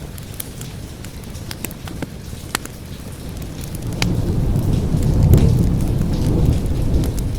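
Steady rain with scattered sharp pops of a crackling wood fire; about halfway through a low rolling thunder rumble builds, peaks and carries on to the end.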